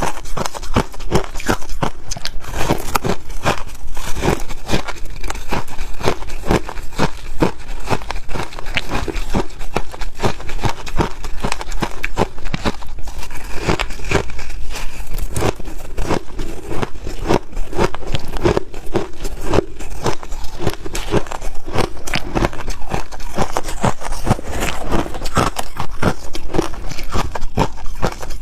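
Snow ice being bitten and chewed: a dense, unbroken run of crisp cracks and crunches.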